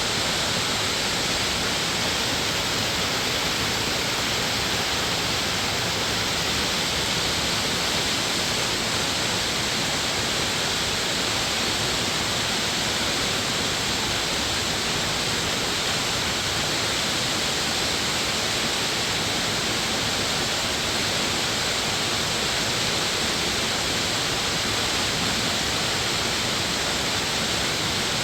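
Steady rushing water of a mountain valley stream or waterfall, an unbroken even roar.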